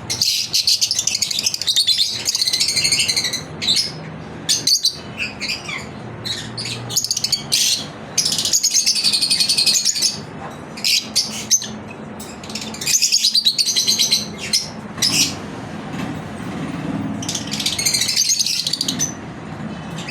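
Lovebirds chirping in rapid, shrill bursts of chatter, several clusters with short pauses between them.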